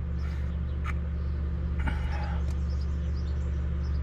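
A steady low hum runs throughout, with a few faint bird chirps and a light click or two about one and two seconds in.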